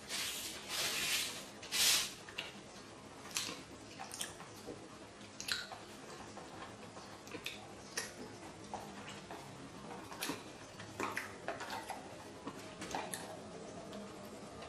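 Close-miked chewing and wet mouth sounds of someone eating sushi, with small smacks and clicks scattered throughout. Two louder rushes of noise come in the first two seconds.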